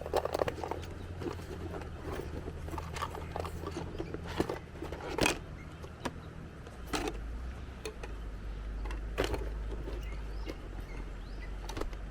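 Watercolor pencils scratching in short strokes across synthetic Yupo paper, with several sharp clicks, over a steady low rumble of wind on the microphone.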